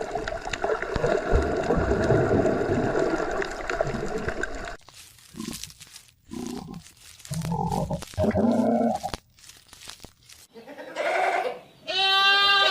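Livestock bleating: a dense, noisy din for the first few seconds, then after a sudden cut several separate short bleats, ending with one loud, clear bleat near the end.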